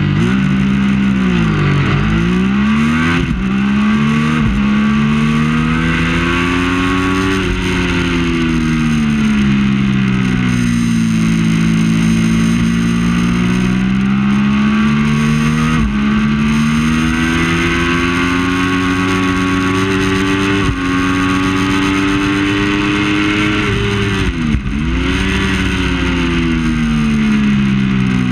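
Triumph Daytona 675's three-cylinder engine racing hard, its pitch climbing through the revs and dropping in sudden steps at gear changes. It falls steeply twice, about two seconds in and near the end, then climbs again.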